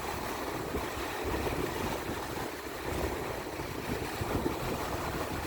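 Strong wind buffeting the microphone in an uneven, gusty rumble, over a steady rush of waves on the water.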